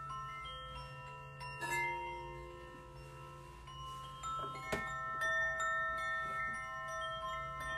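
Struck metal percussion, a steel tongue drum (glucophone) with chimes, playing notes at many different pitches that ring on and overlap. Two sharper strikes stand out, near two seconds in and again near five seconds.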